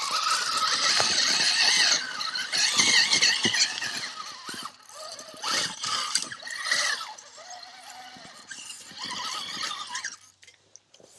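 Axial SCX6 RC crawler's electric motor and drivetrain whining, the pitch rising and falling with throttle, amid clicks and knocks of the truck on rock. It dies away near the end.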